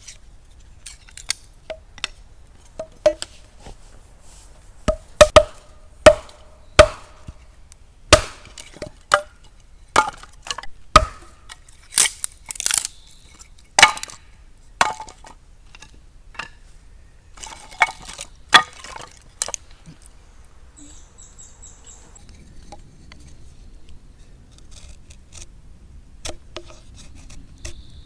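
Wood being chopped with a blade: sharp, irregular knocks, a few each second, which thin out after about twenty seconds.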